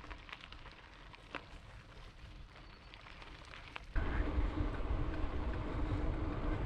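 Quiet with a few faint clicks. About four seconds in, a steady rushing noise starts abruptly: wind on the microphone and tyre noise as a gravel bike rolls.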